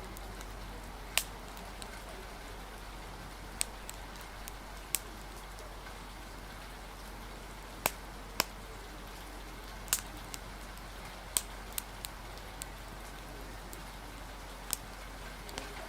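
Fire crackling, with a dozen or so sharp pops at irregular moments over a steady hiss of rain.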